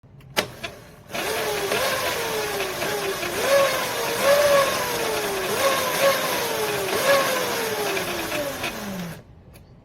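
The 300 W electric motor of a children's electric motorcycle whining, its pitch jumping up with each burst of throttle and sliding down as it coasts, over and over. Near the end it winds down to a low pitch before the sound cuts off. A single click about half a second in.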